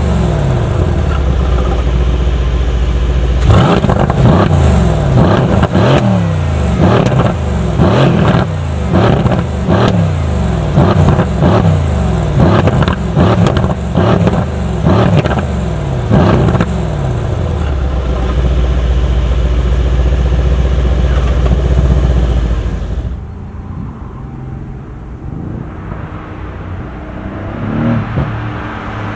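2017 Mercedes-AMG C63 S's 4.0-litre twin-turbo V8 exhaust, loud. It holds a steady drone, then revs up and down in quick succession for over ten seconds with sharp crackles between the sweeps, settles into a steady drone again, and drops much quieter near the end.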